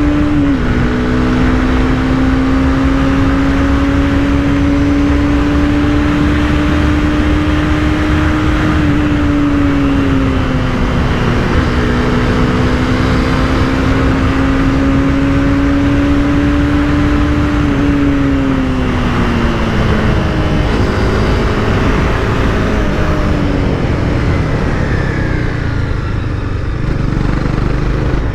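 Honda CBR300R's single-cylinder engine running under way, its note climbing slowly, dipping about nine seconds in, climbing again and then falling off about two-thirds of the way through as the bike slows, over steady wind and road noise.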